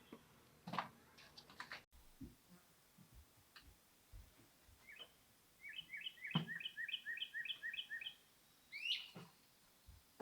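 Birds chirping outdoors. One bird gives a quick run of repeated chirps, about five a second for two seconds past the middle, and a few sharp rising notes follow near the end. Faint low knocks sound in between.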